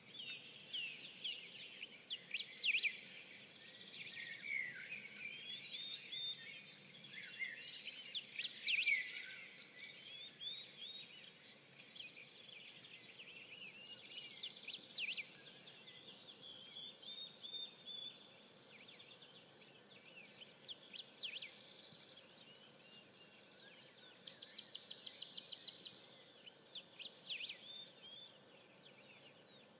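Songbirds singing and chirping, several short calls and sweeping phrases overlapping throughout, with a rapid even trill of about seven notes a second near the end.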